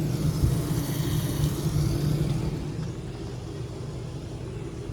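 Vehicle running, a steady low engine and road rumble from inside the cab that eases off a little past halfway through.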